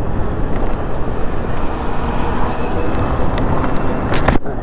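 Electric bike riding on a wet road: steady wind rush over the microphone with tyre hiss from the wet surface. A few sharp clicks near the end.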